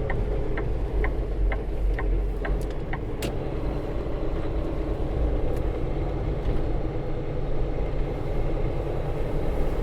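Semi truck's diesel engine running steadily, heard from inside the cab, with the turn signal clicking about twice a second until about three seconds in.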